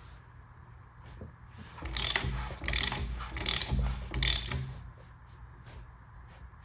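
Ratchet wrench being worked, four rasping ratchet strokes in quick succession, with a few light clicks of tools on metal around them.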